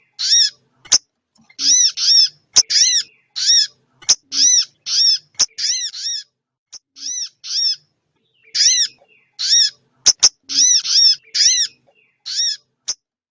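Small songbird lure call played on repeat, as used to draw sogok ontong and bangcit to birdlime. Short, sharp calls, each arching up and down in pitch, come singly or in quick runs of two or three, roughly every half second, with a few short pauses. Occasional sharp clicks fall between the calls.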